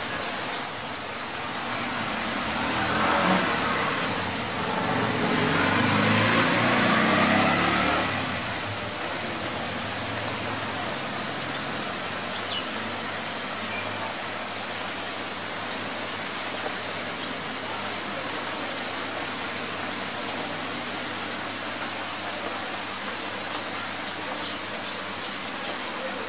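Steady hiss of a light drizzle falling on leaves and paving. A motor vehicle passes by between about two and eight seconds in, swelling and then fading away.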